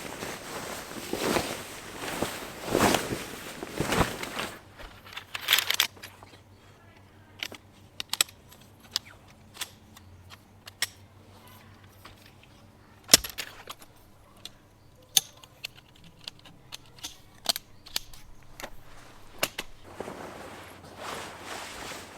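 Rustling, shuffling steps for the first few seconds. Then scattered sharp clicks and knocks at irregular intervals, one much louder about thirteen seconds in. Rustling again near the end.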